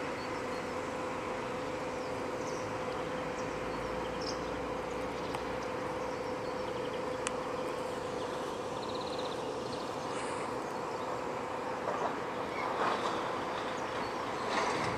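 Steady rushing noise with a constant low hum aboard the motor ship Alexander Benois in a lock: the ship's machinery running amid water and wind noise. A few faint high chirps sound in the first half.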